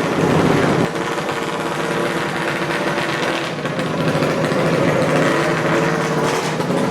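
Small minibike engine running at a steady speed on a dyno.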